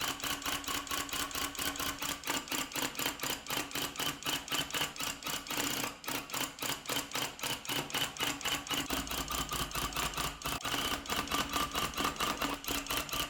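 Electric tufting gun running, a fast, even mechanical chatter of about six strokes a second as it punches yarn into the backing cloth, with a brief break about six seconds in.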